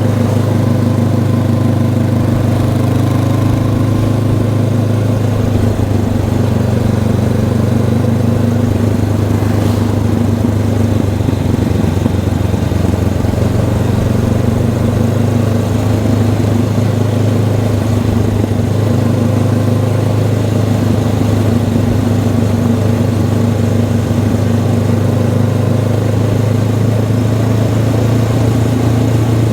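Honda CB500X's parallel-twin engine running at steady revs while the motorcycle cruises. The engine note holds an even pitch throughout.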